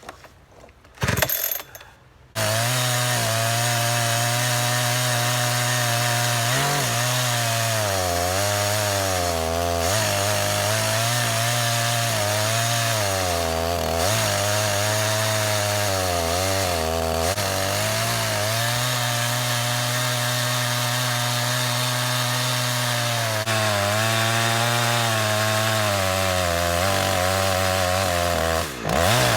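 Two-stroke chainsaw, a Holzfforma G372XP (Husqvarna 372XP clone), comes in suddenly about two seconds in and runs at full throttle, ripping a log lengthwise in an Alaskan chainsaw mill with an 18-inch bar and ordinary crosscut chain. Its pitch sags and recovers as the chain loads up in the cut, with a brief deep dip near the end.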